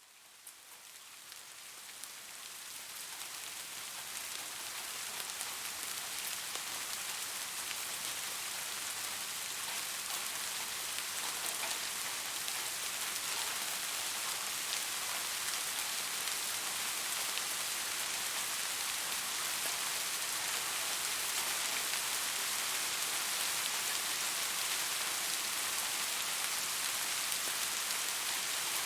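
Steady rain falling, a dense hiss of many small drops, fading in from silence over the first few seconds.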